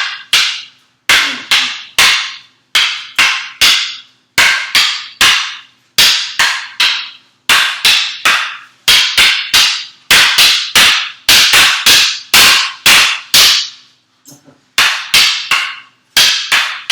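Escrima sticks clacking against each other in a rapid, steady rhythm as two partners trade strikes in the Heaven 6 double-stick drill, about three to four sharp cracks a second, each ringing briefly. The strikes stop for a moment about fourteen seconds in, then start again.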